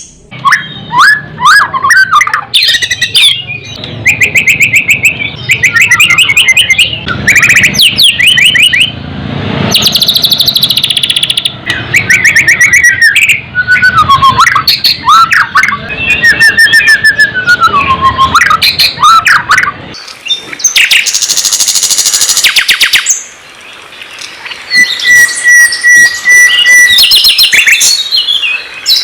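A songbird's loud, varied song: shifting whistles, gliding notes, trills and rapid chattering phrases follow one another with hardly a pause. Near the end there is a held, level whistle.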